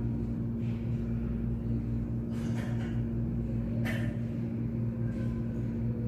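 A caged pet bird coughing: a few short, sharp coughs about two, four and five seconds in, which the owner takes for a cough with asthma. A steady low hum runs underneath.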